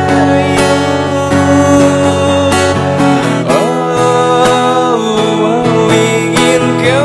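Instrumental guitar music: a melody line with bent and sliding notes over strummed chords.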